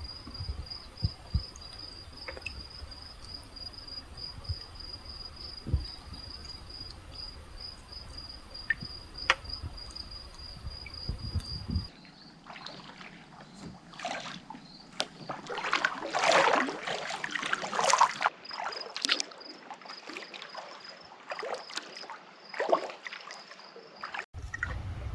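An insect trills steadily on a high, evenly pulsing note. About halfway through, water starts splashing and trickling in irregular bursts from kayak paddle strokes, while the insect trill carries on above it.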